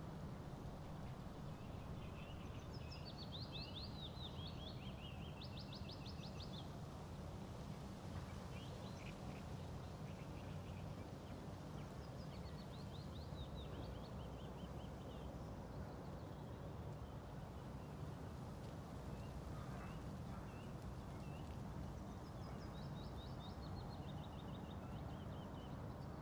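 A songbird singing short trilled phrases about four times, each stepping down in pitch, over a steady low background rumble.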